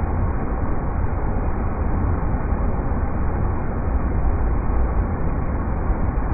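River rapids rushing in a steady, deep, unbroken roar of water noise.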